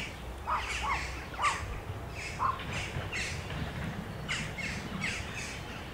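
Birds calling in short, repeated calls, about once or twice a second, over a steady low rumble.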